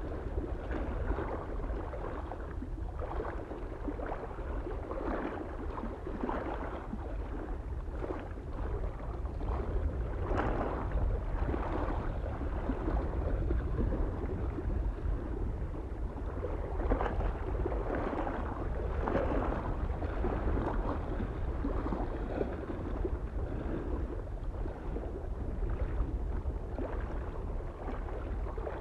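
Small lake waves lapping and splashing against the shore in an irregular, overlapping rhythm, over a steady low wind rumble.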